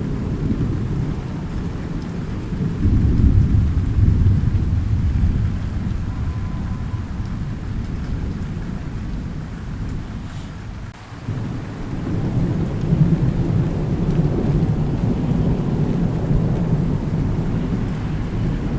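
Thunderstorm with steady rain and rolling thunder. A low rumble swells about three seconds in, eases and dips briefly near the middle, then builds again.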